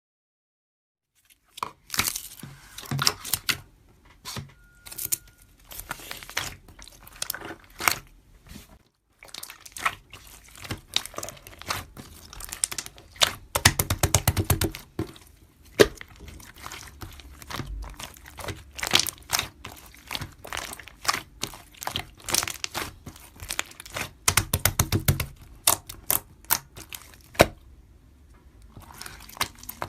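Irregular crinkling and crackling noises, like material being handled close to the microphone, in uneven bursts with a short pause around nine seconds in.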